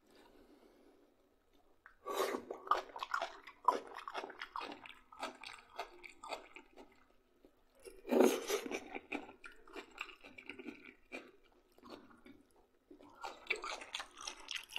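A person chewing food close to the microphone, in irregular clicky, wet mouth noises that come in three spells: starting about two seconds in, again about eight seconds in, and near the end.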